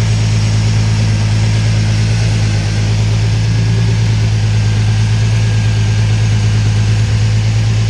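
Twin-turbo engine of an MG Midget idling steadily on its first start-up after the build, a loud, even, low hum with no change in speed.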